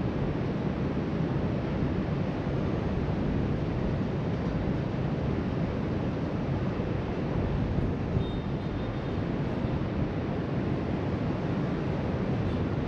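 Steady rush of ocean surf breaking along the shoreline below, mixed with wind buffeting the camera microphone.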